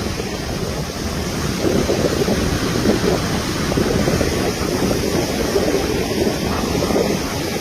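Steady rushing noise of winter rain and wind, with wind buffeting the microphone in a low, fluttering rumble.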